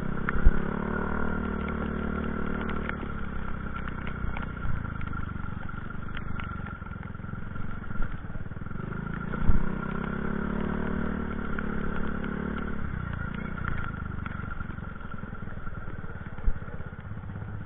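Vehicle engines passing twice, each swelling and fading over a few seconds, over a steady background rush, with a few sharp knocks.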